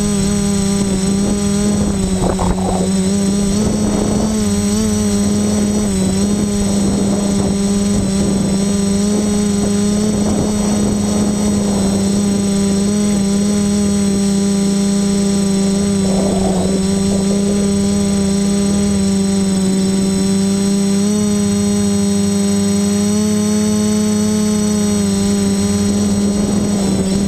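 Quadcopter's electric motors and propellers running with a steady whine, heard from the GoPro mounted on the craft. Brief bursts of rushing noise come in the first half, and the pitch steps up slightly a couple of times near the end.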